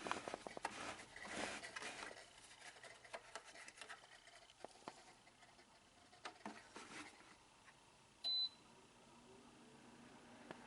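Light clicks and rustling of the Pelonis ceramic tower space heater being handled, then a single short high beep from its controls about eight seconds in. A faint steady hum sets in near the end.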